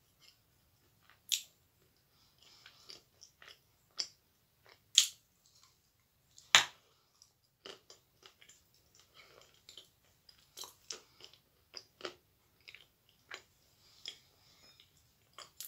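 Close-up biting and chewing of a dry, crumbly chunk of edible clay: a few sharp crunches, the loudest just before the middle, with softer chewing clicks in between.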